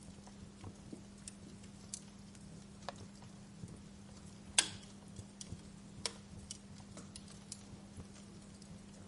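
Wood fire crackling: scattered, irregular snaps and clicks, with one sharp louder pop a little past halfway. A steady low hum runs underneath.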